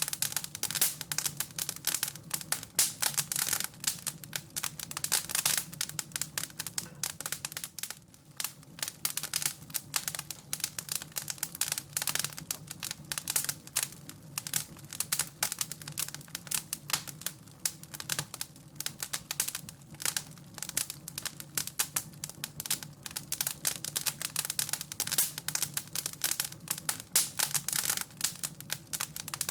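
Wood fire crackling in a fireplace: dense, irregular snaps and pops, with a faint low steady hum underneath.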